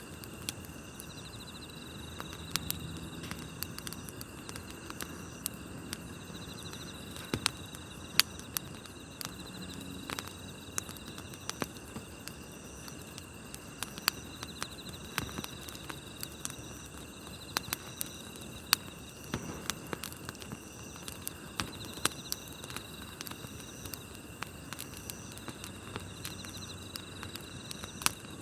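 Wood campfire crackling, with sharp irregular pops. Underneath runs the steady, layered chirping of night grass insects such as crickets.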